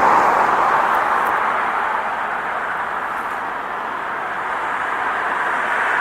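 Steady road noise from passing vehicles, easing off in the middle and building again near the end as another vehicle approaches.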